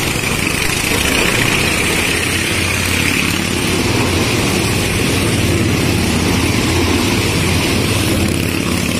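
Motorcycle engines running steadily with no clear revving.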